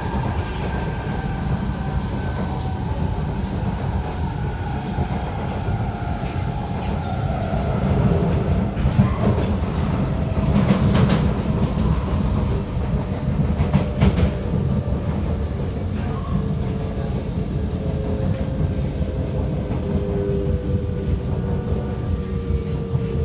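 Cabin sound of an SMRT Kawasaki & Nippon Sharyo C751B train running: a steady rumble of wheels on rail with a few clicks from the track around the middle. A motor whine slides down in pitch near the start and again near the end as the train slows.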